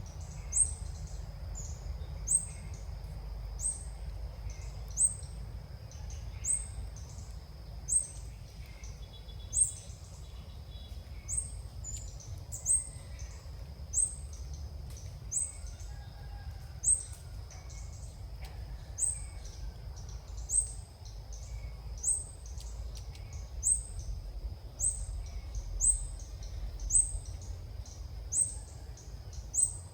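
Ốc mít bird calling: a short, high chirp repeated very evenly about every second and a half, over a steady high hum.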